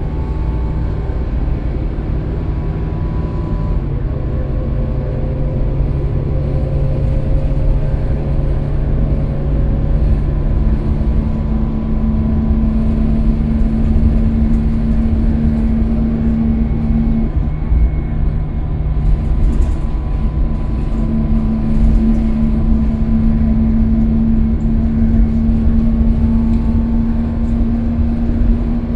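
Scania K320UB city bus running on the road, a steady engine drone whose tones shift slightly in pitch, with one rising slowly a few seconds in.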